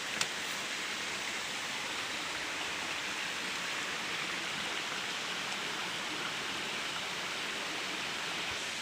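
Waterfall water falling and splashing, a steady even rush, with one brief click just after the start.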